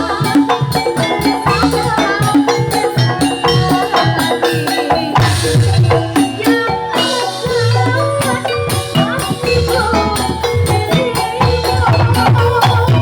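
Javanese gamelan music for a Jathilan horse-trance dance: metallophones ringing out melody notes over drums and rattling percussion, played loud through a sound system.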